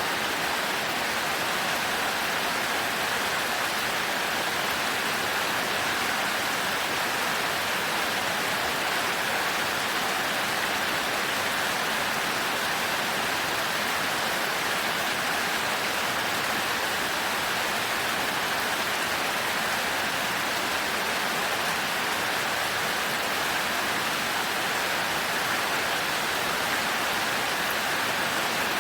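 Heavy rain falling steadily, an even hiss that holds the same throughout.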